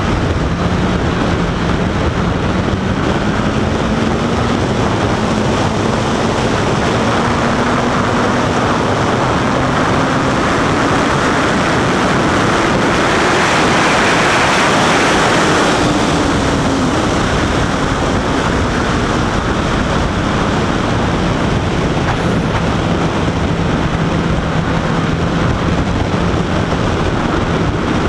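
Honda CBR1000RR Fireblade's inline-four engine running on the road, its note rising slowly through the first half. Heavy wind rush on the microphone peaks a little past halfway, then the engine note drops and holds steady.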